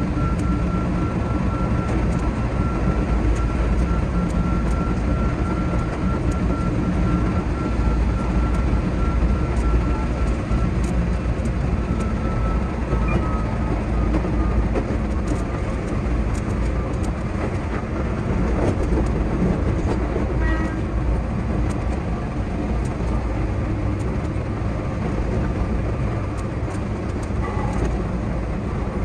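Keihan 8000 series electric train running at speed, heard from inside the driver's cab: a steady rumble of wheels on rail with frequent short clicks, and a faint high whine that sinks slightly in pitch.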